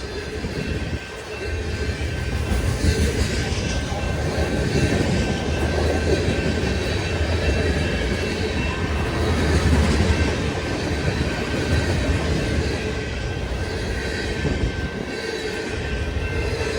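A freight train's cars rolling steadily past, wheels clattering on the rails with a low rumble and a few faint, steady high-pitched ringing tones.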